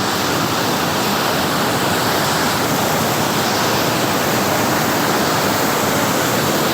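Waterfall roaring steadily at close range, a dense even rush of falling water with no break.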